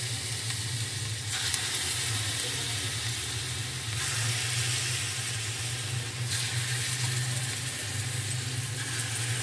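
Banana-batter pakoras frying in very hot oil in a shallow pan: a steady sizzle that flares louder about a second in, again about four seconds in and again about six seconds in, as fresh dollops of batter are dropped into the oil.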